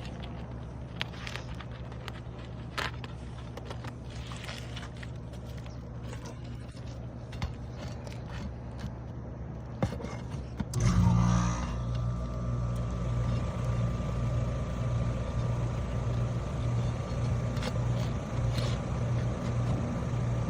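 Scraping and scattered sharp clicks of asphalt shingles being pried up to get at their nails. About halfway through, a louder steady low engine drone with a slight pulsing comes in and stays.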